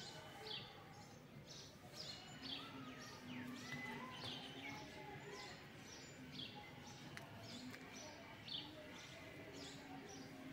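Faint, short, high chirps of small birds, repeating about once or twice a second, over a quiet open-air background.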